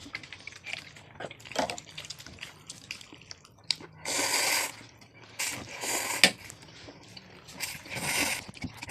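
Close-up eating sounds: wet chewing and lip smacks with small clicks, and three longer slurping sounds about four, six and eight seconds in.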